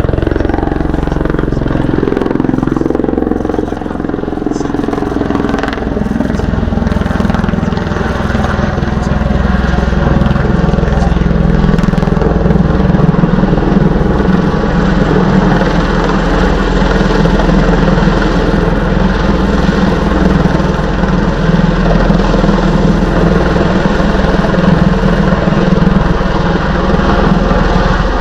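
Bell Boeing V-22 Osprey tiltrotor flying a display: its two large proprotors and turboshaft engines make a loud, steady drone with a deep rotor throb. The pitch shifts over the first few seconds, then holds steady.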